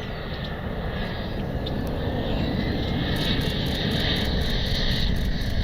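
Jet engines of a Dassault Falcon business jet on approach, growing steadily louder. A high hissing whine comes in about three seconds in.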